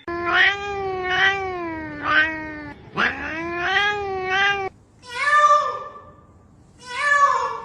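A cat yowling: two long, drawn-out calls that waver in pitch, then two shorter meows.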